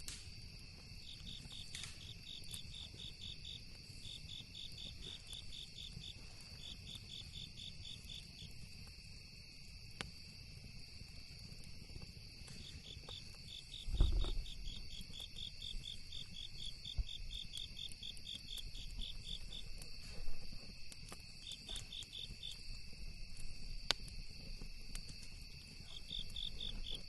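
Crickets chirping in rapid pulsed trains over a steady high insect drone. There are a few sharp crackles and one dull thump about halfway through.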